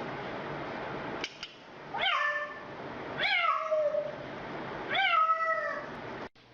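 Three meows, each rising then falling in pitch, a little over a second apart, after a steady hiss that cuts off about a second in.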